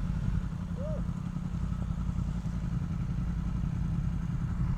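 Motorcycle running at a steady pace on the road, a continuous low rumble.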